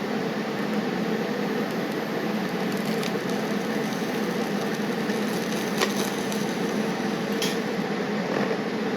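Brazing torch flame running with a steady roar while a nut is brazed onto a steel clamp, with a few faint metallic ticks.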